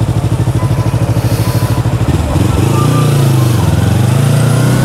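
Motorcycle engine idling with an even, rapid pulse. About two seconds in it pulls away and runs smoother, its pitch rising and dipping as it accelerates.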